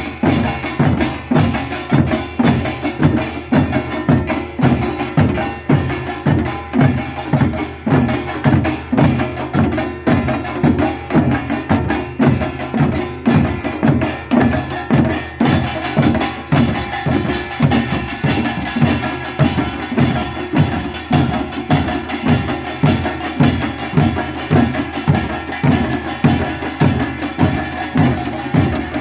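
Korean traditional pungmul percussion ensemble playing a steady, driving beat: evenly spaced drum strokes about two to three a second, with ringing metal tones above.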